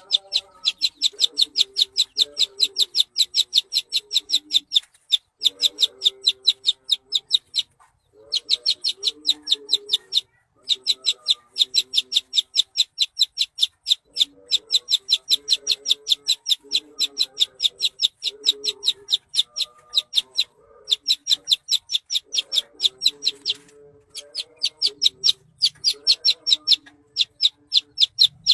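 A songbird's masteran song of rapid-fire 'tembakan': sharp, high notes repeated about four to five times a second in runs of several seconds, broken by brief pauses. Softer, lower calls sound underneath.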